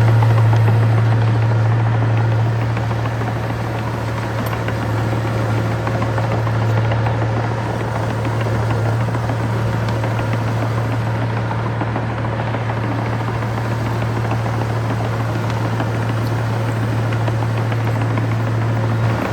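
Heavy earthmoving machinery's diesel engine running steadily with a deep, continuous drone.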